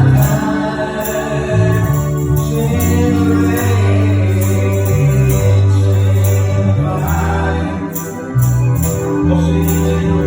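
Live gospel praise music with a heavy bass line, sustained chords and a tambourine-like beat, with singing mixed in.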